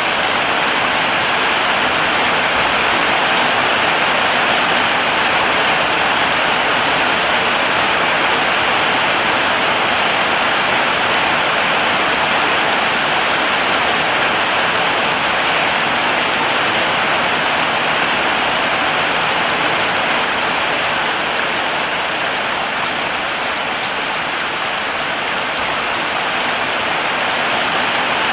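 Heavy rain falling steadily, an even hiss of drops without let-up.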